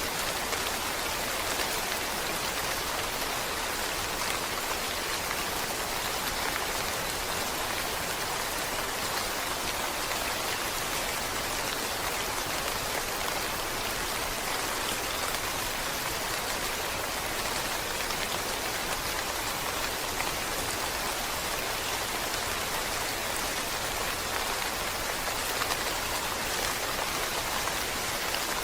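Steady rain falling, an even hiss of many drops without any distinct single drops or breaks.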